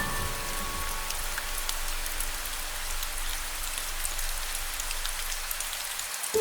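Steady rain with scattered faint drop ticks. The last piano notes ring out and fade in the first second or so.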